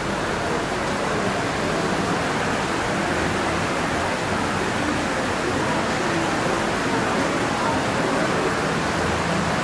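Torrential rain pouring down: a steady, even hiss of very heavy rain.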